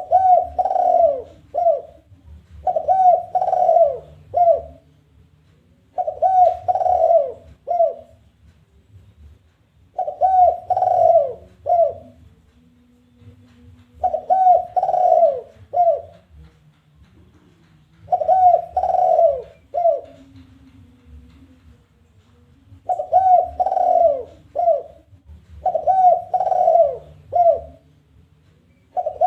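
Spotted dove (tekukur) giving its challenging call: repeated cooing phrases of three or four notes, each ending in a short clipped note, about every three to four seconds. This is the call used as a lure to draw wild doves.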